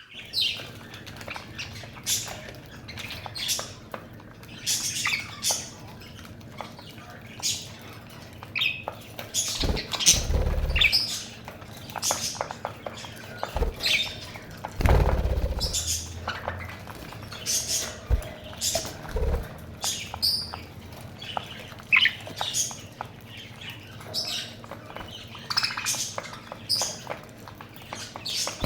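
Pet budgerigars chirping: a steady run of short, high chirps and calls. A few dull low thumps break in, the loudest about ten and fifteen seconds in.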